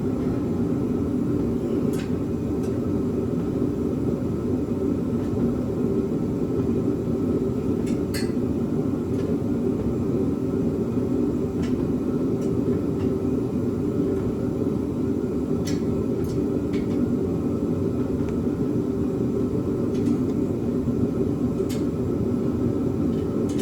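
A steady low drone, with scattered sharp metallic clicks about every two or three seconds from a wrench and socket working the header bolts at the cylinder head.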